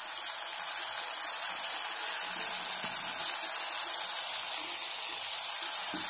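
Capsicum, tomato and raw-mango masala frying in oil in a pan: a steady sizzling hiss that grows slightly louder.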